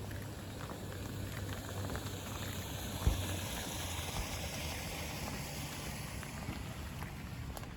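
Steady rain falling, with a hiss that swells and fades in the middle, as of a vehicle passing on the wet road. A short low thump about three seconds in.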